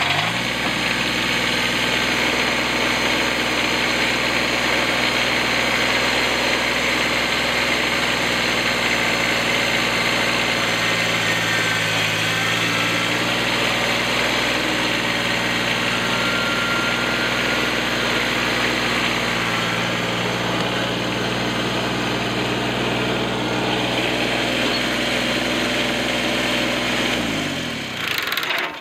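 A vehicle engine, just started, idling steadily with a slight shift in pitch partway through, then winding down and shutting off near the end.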